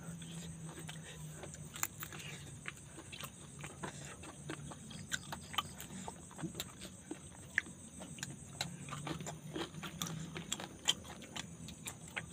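Eating by hand, close up: chewing of grilled bird and rice, with many small scattered clicks of fingers and bones on plates. A faint low hum sits underneath.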